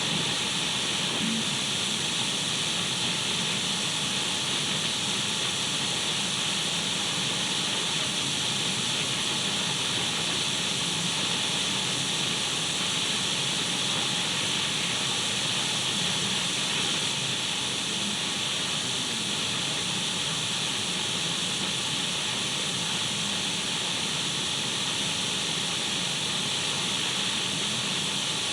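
Radio static: the even, unchanging hiss of an untuned radio, brightest in the upper range.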